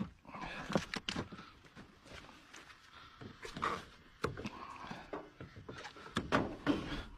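Irregular knocks, thumps and clatter from hands handling and moving about, with short sharp clicks among them.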